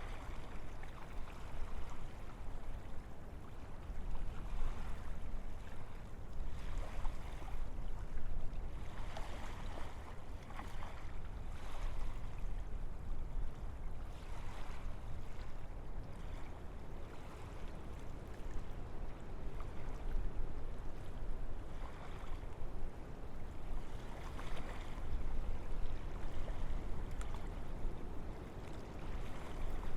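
Wind blowing through forest trees, the leaves rustling in gusts that swell and fade every couple of seconds over a steady low rumble of wind.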